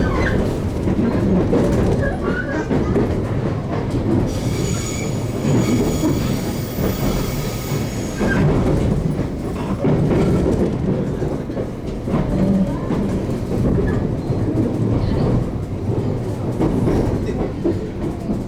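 JR Kyushu 813 series electric train running along the track, heard from inside the carriage as a steady rumble of wheels on rail. About four seconds in, a high steady whine joins for about four seconds, then fades.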